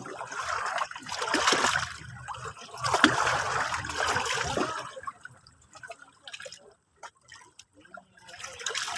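Small sea waves washing in on the shore: two swells in the first five seconds, then quieter trickling and little splashes as the water drains back, and another wave arriving near the end.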